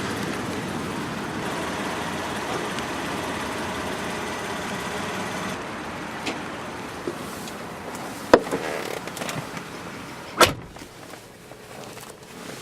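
Steady running noise in an SUV's cabin that slowly fades, then two sharp clicks about two seconds apart from interior parts being handled, the first of them the loudest sound.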